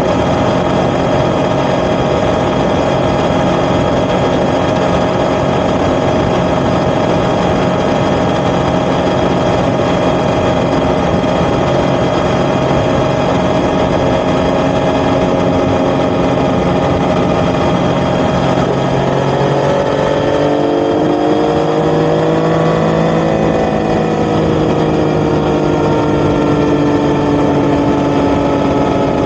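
Yamaha XSR900's three-cylinder engine running through an Akrapovic titanium exhaust, holding a steady note while riding. About two-thirds of the way through, the engine note changes: its pitch rises, falls back and then settles at a new steady speed.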